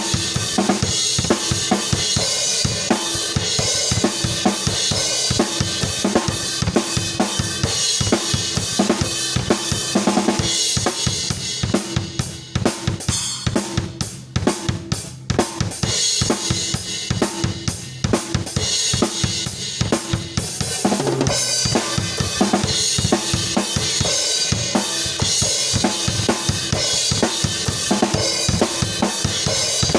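Isolated drum kit track from a song: kick, snare, hi-hat and cymbals playing a steady beat. About twelve seconds in the playing thins out and the cymbals drop back for a few seconds, then the full kit with cymbals comes back in.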